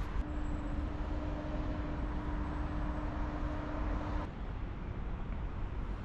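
Steady low rumble of distant motor traffic with a thin steady hum, which cuts off abruptly about four seconds in, leaving a quieter rumble.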